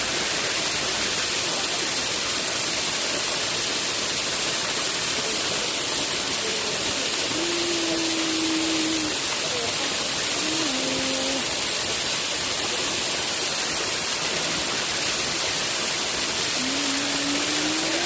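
Waterfall rushing, a steady, even roar of falling water. Faint pitched fragments, like distant voices, come through briefly in the middle and near the end.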